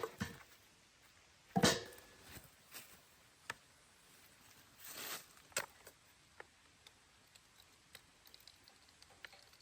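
Scattered light clicks and knocks, with a louder, brief clattering rustle about one and a half seconds in and another about five seconds in.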